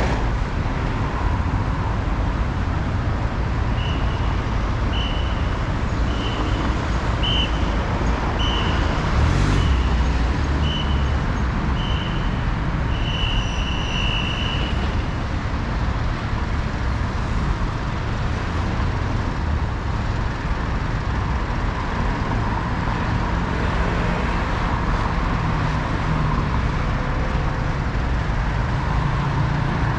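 Steady city road-traffic noise heard from a moving bicycle. From a few seconds in until about halfway, a row of about ten short electronic beeps at one high pitch sounds roughly once a second, ending on a longer beep.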